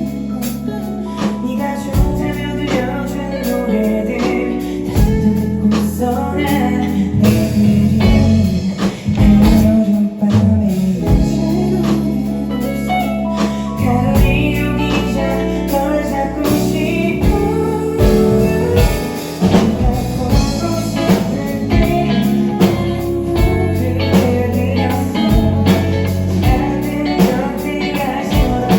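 Live band performance of a pop-rock song: drum kit, bass and guitar playing, with a singing voice in places.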